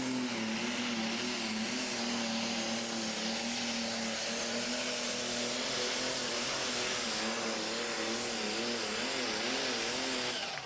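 Pulling vehicle's engine running flat out under load during a pull, a loud, steady high-revving note that sags slightly in pitch about a second in and wavers up and down near the end, cutting off abruptly.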